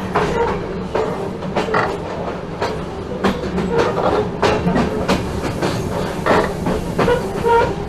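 Train under way behind an NS class 1700 electric locomotive: a steady low hum with the wheels knocking irregularly over rail joints.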